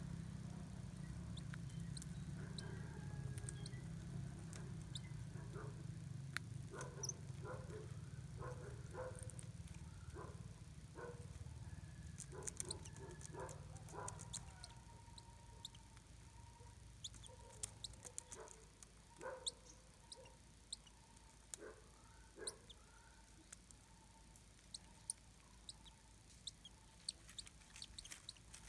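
Faint, short animal calls and scattered clicks over a low hum, which fades out about halfway through.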